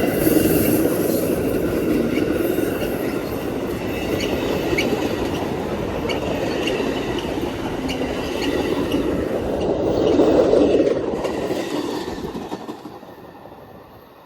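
Amtrak passenger train running past, its wheels clattering over the rail joints with a thin high wheel squeal on top. It is loudest near the end, then quickly fades as the train moves away.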